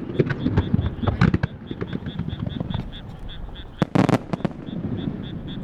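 Starmine fireworks barrage: rapid bangs and crackles from shells bursting in quick succession through the first second and a half, then a loud cluster of bangs about four seconds in.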